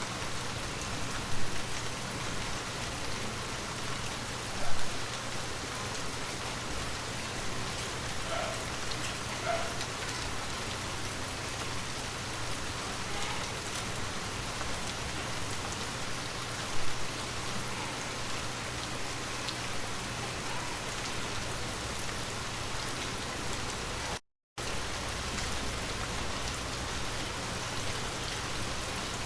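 Steady rain falling, an even hiss of drops, with three short louder sounds standing out early and midway. The sound cuts out completely for a moment near the end.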